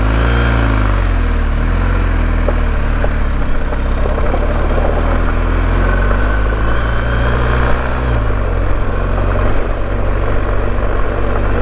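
BMW R1250GS boxer-twin engine running at low speed on a gravel forest track, its note dipping and picking up again now and then, over steady wind and tyre noise.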